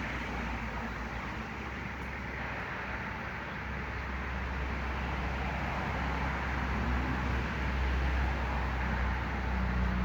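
Steady rumble and hiss of road traffic, growing slightly louder in the second half.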